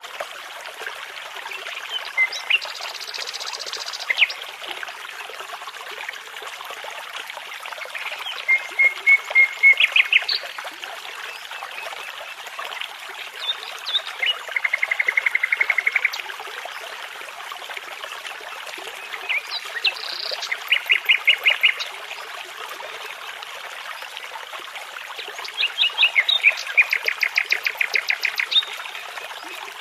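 Nightingale singing in separate phrases of fast repeated notes and short whistles, about five phrases spread through the stretch, over the steady babble of a brook.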